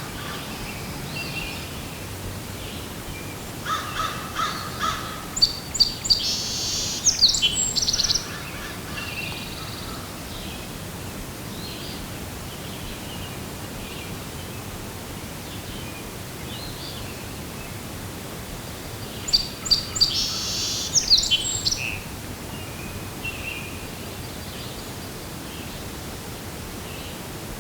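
A songbird singing two bright, rapidly trilled phrases, about four seconds in and again near twenty seconds, with scattered fainter chirps between them over a steady outdoor hiss.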